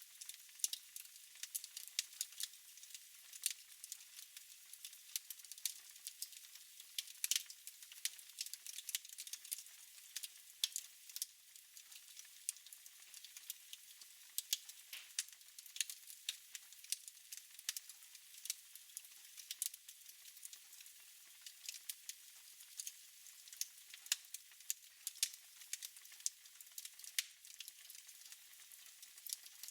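Fire crackling in a fireplace: frequent, irregular sharp pops and snaps over a soft hiss.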